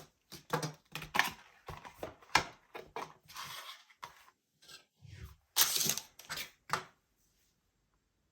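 A camera lens filter and its packaging being handled: a quick string of rustles, clicks and scrapes that stops about seven seconds in.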